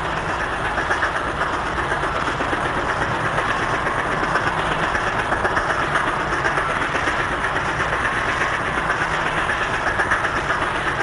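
American Flyer electric model trains running on the layout's track: a steady rumble with rapid clickety-clack.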